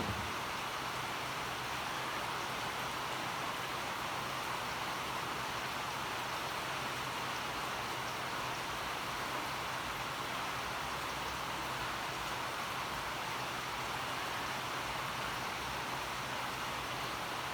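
Steady, even hiss with a faint low hum beneath it and a brief click at the very start.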